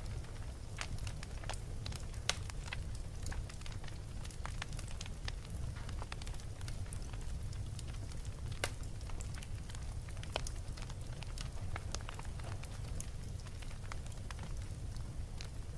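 Wood fire burning in a fireplace, crackling with irregular sharp snaps and pops over a low, steady rumble of the flames; two pops, about two seconds in and near the middle, stand out as the loudest.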